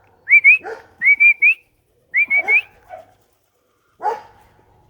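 A person whistling three quick phrases, each of two or three short, rising notes: the keeper's call whistle for bringing pigeons in. A dog barks a few times between the phrases.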